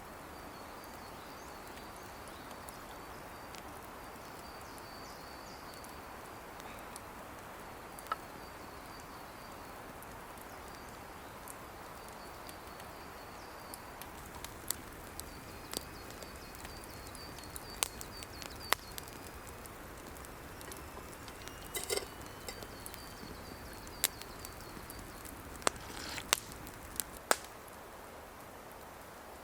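Outdoor forest ambience: a steady noisy hiss, with a high repeating trill from a bird or insect coming and going. Scattered sharp snaps and clicks begin about halfway through and grow more frequent near the end.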